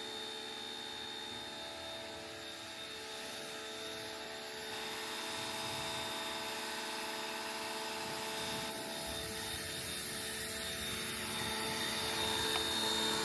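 A machine running steadily: a motor drone with several steady whining tones over a hiss, a little louder partway through. It cuts off suddenly at the end.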